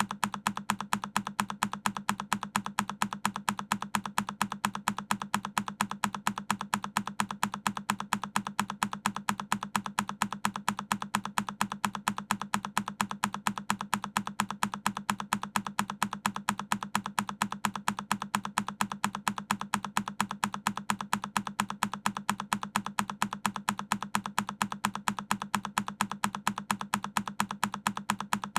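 A single key on a Keychron K10 mechanical keyboard is pressed over and over. The same looped key click repeats at an even pace, several times a second.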